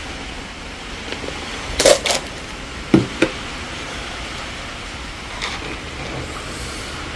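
A few short knocks, two pairs about a second apart, over a steady background hiss.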